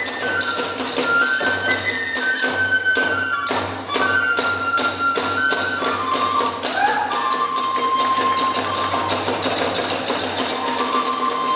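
Kagura hayashi music: a bamboo flute (fue) melody moving in held notes with a slide about seven seconds in, over a steady beat of drums and small hand cymbals.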